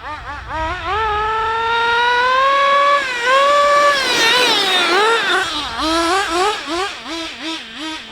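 Small nitro engine of a Team C Stoke N RC car at full throttle, its high-pitched note climbing steadily as the car accelerates. It swoops up and down around the middle, then drops to quick short throttle blips, about three a second, near the end.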